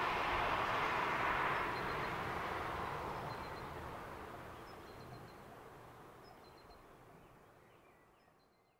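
Noise of a train that has just passed, dying away steadily until it is gone, with birds chirping briefly a few times.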